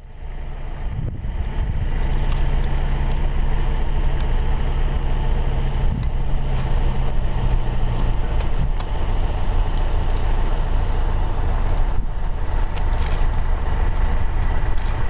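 Light propeller aircraft engine running steadily with a low rumble; its low tone shifts about eight seconds in.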